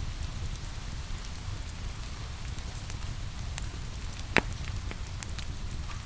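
Log fire crackling over steady falling rain, scattered small crackles with one loud sharp pop a little past four seconds in.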